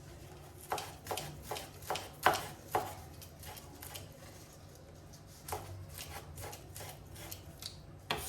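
A series of about a dozen irregular sharp knocks and taps, like hard objects being set down or struck. They come in two clusters, the loudest about two seconds in.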